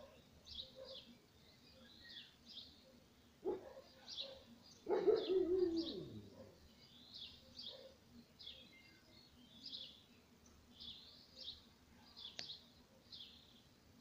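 A small bird chirping repeatedly in short high notes, often in pairs, about once a second. About five seconds in, a louder, lower sound slides down in pitch over a second and a half, and a shorter low sound comes just before it.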